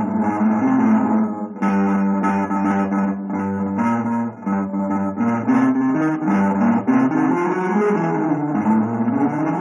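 Guitar music: plucked notes following one another quickly, with a held low note underneath.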